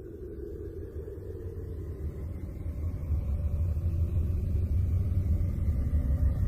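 Deep, noisy rumble that swells steadily louder: a 'space sound', a sonification presented as the noise of a body in the Uranus system.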